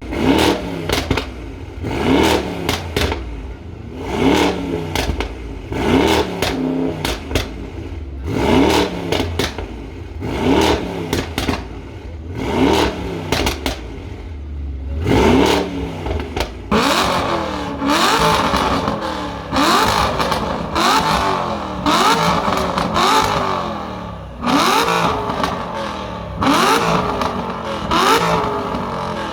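A car engine revved over and over, each blip rising sharply and falling back with crackling pops: about every two seconds at first, then quicker, about once a second, from midway.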